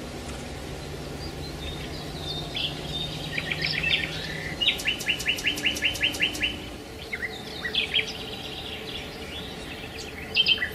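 Birds chirping and trilling in runs of short, quickly repeated notes, the busiest run about halfway through, over a steady background hiss.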